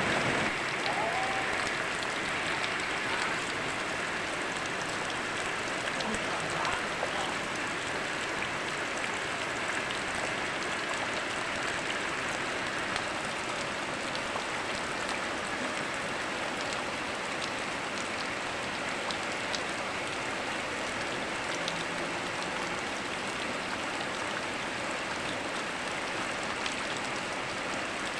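Steady rain mixed with the rush of a flowing river, with scattered sharper ticks of drops striking close by.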